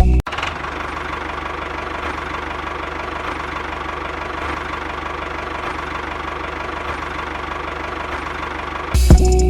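Small toy motor running steadily, then cut off near the end.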